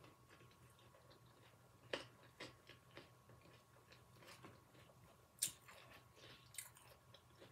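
Faint chewing of a seaweed-wrapped vegetable sushi hand roll, with a few soft, sharp mouth clicks spread through an otherwise quiet stretch.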